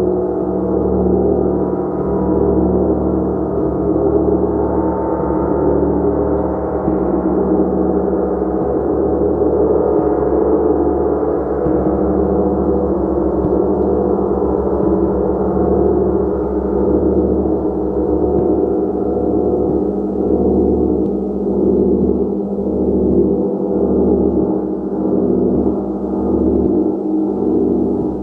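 A gong played continuously, building a dense wash of overlapping sustained tones that sit mostly in the low and middle range. It holds at a steady level, with no single strike standing out.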